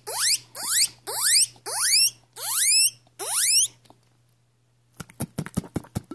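A man imitating a guinea pig's wheek with his mouth: six sharply rising whistles in quick succession. After a pause, a quick run of clicks comes near the end.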